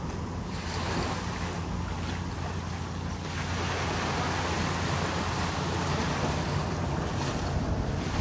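Ocean surf washing in, swelling about half a second in, with wind rumbling on the microphone.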